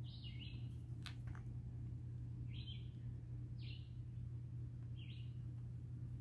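A small bird calling: about five short, high chirps at uneven intervals over a steady low hum, with two faint clicks about a second in.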